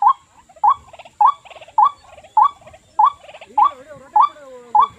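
A bird calling a short, rising chirp over and over at an even pace, nine times, with fainter lower wavering calls underneath.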